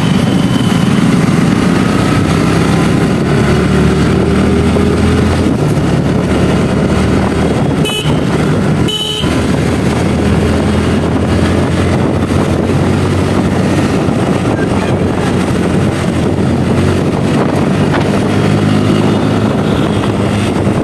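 Kawasaki Ninja ZX-10R's inline-four engine running under way, its note shifting up and down with the throttle, over wind and road noise. A couple of brief horn beeps sound about eight to nine seconds in.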